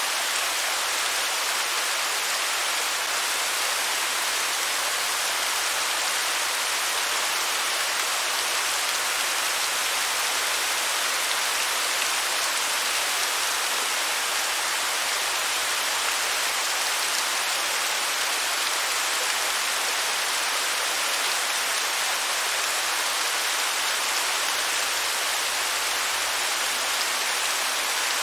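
Waterfall: a steady, unbroken rush of falling water, bright and hissing with little deep rumble.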